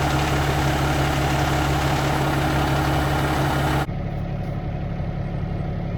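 Dump truck's diesel engine idling steadily. About four seconds in, the sound cuts abruptly to a quieter, lower hum.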